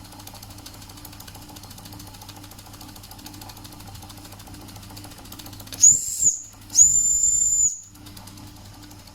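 Doll & Co 339/2 stationary model steam engine running slowly and smoothly with a soft, even beat. About six seconds in, its steam whistle blows twice: a short toot, then a longer one of about a second.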